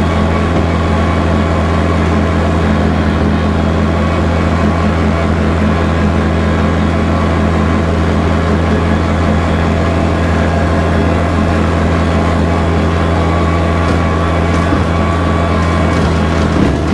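Kubota tractor's diesel engine running steadily with a low, even drone as it powers a bush hog rotary cutter.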